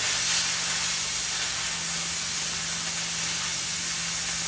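Oxy-acetylene cutting torch flame hissing steadily against thick steel while it preheats and cuts.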